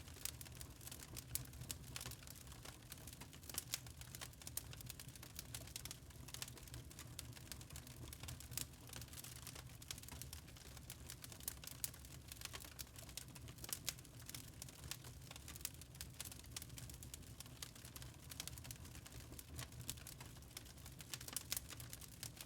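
Log fire crackling in a fireplace: irregular sharp pops and snaps from the burning wood over a low steady rumble.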